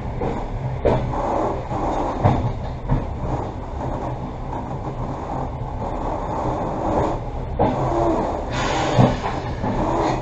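Passenger train carriage running along the track, heard from inside: a steady rumble of wheels on rails with a few sharp knocks, and a brief hiss near the end.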